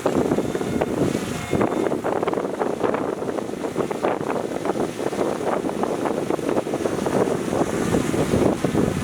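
Heavy diesel earthmoving machinery working, a steady engine noise mixed with dense, continuous clattering and rattling.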